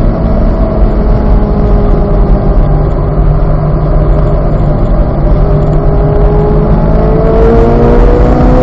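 Chevrolet Corvette Z06's 5.5-litre flat-plane-crank V8 running hard under load on a track, its pitch holding fairly steady and then climbing slowly through the second half as the car accelerates, over heavy wind and road rumble.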